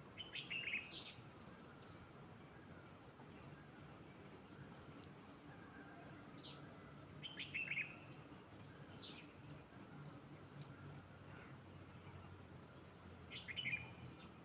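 Small songbird singing: a short burst of quick, high, downslurred chirps, repeated three times (near the start, about halfway through, and near the end), with fainter scattered bird calls in between over a low background hum.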